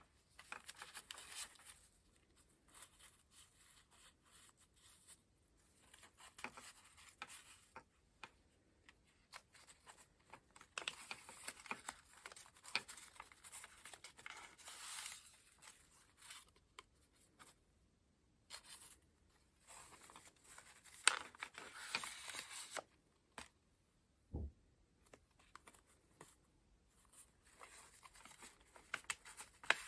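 Pages of a paper collage book being turned and handled: irregular rustles and swishes of paper with small clicks, and one soft low thump about three-quarters of the way through.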